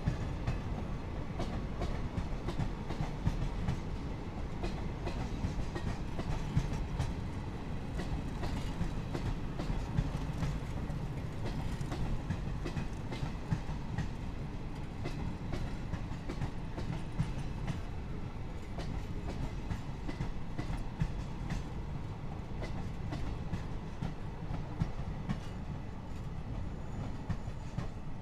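Indian Railways passenger coaches rolling past on the track: a steady low rumble with the clickety-clack of wheels over the rail joints.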